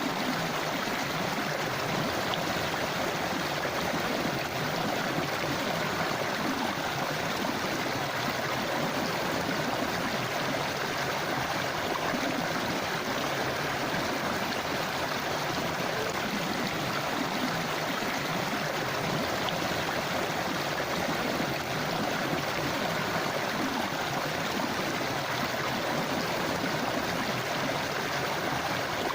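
River water flowing and rushing over stones, a steady, even babble.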